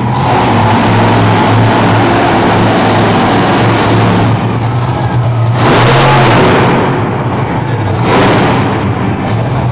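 Monster truck engine running loud and hard, with two sharp full-throttle surges, about five and a half seconds in and again about eight seconds in, that each die away over about a second.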